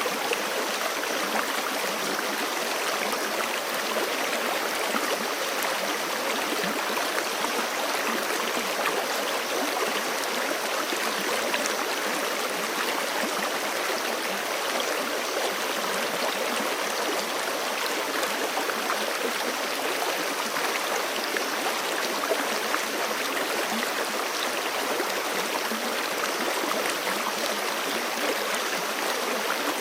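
Forest creek flowing steadily over rocks, a constant rushing and gurgling of water.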